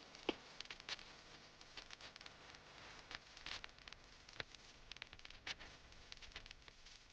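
Near silence, with faint scattered small clicks and rustles.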